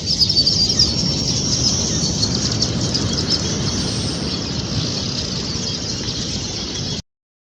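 A dense chorus of small birds chirping continuously over a steady low rumble. The sound cuts off suddenly near the end.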